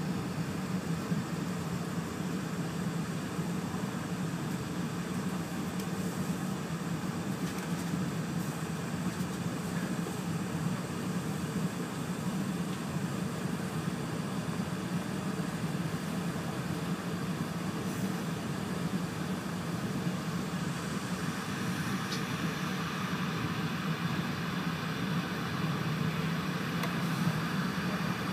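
Steady rumble and hiss of an E4 series Shinkansen running, heard inside the carriage as it pulls out of the station and gathers speed; the higher part of the noise grows a little in the last third.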